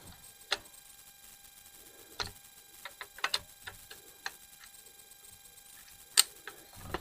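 Scattered sharp clicks and taps, about ten in all, the loudest about half a second in, near two seconds, around three seconds and just after six seconds. This is a Holosun HE510C-GR reflex sight being slid and seated along an AR-15's rail.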